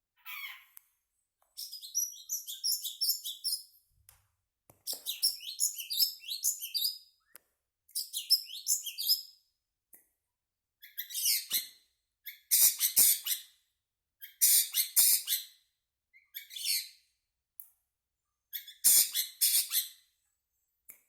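Long-tailed shrike (cendet) singing in an agitated state, in about nine bursts of a second or two with short pauses between them. The first bursts are quick runs of short chirping notes; the later ones are harsher and rasping.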